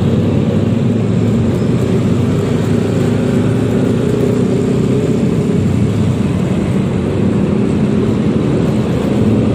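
Wind rushing over the microphone while riding, with the Yamaha XMAX 300 scooter's single-cylinder engine running steadily underneath through its stock exhaust.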